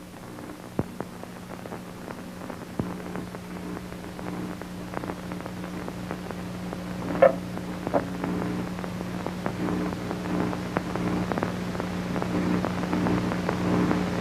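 Steady low hum with scattered crackles and pops, slowly growing louder, with two sharper pops about halfway through.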